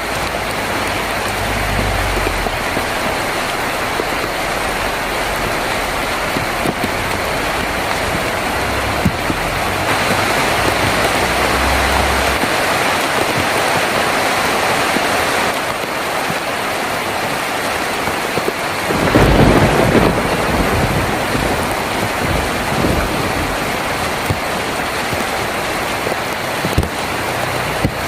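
Heavy rain falling steadily on a tin roof, with thunder rumbling low in the background a couple of times and a louder thunderclap about two-thirds of the way through.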